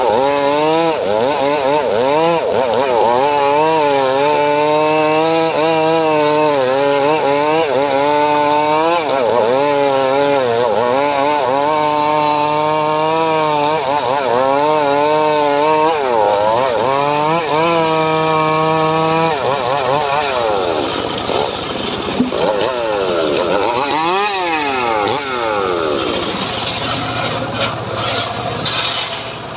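Homemade chainsaw engine running hard while cutting mahogany wood, its pitch wavering as the chain bites. From about 20 seconds in, the engine revs up and down repeatedly.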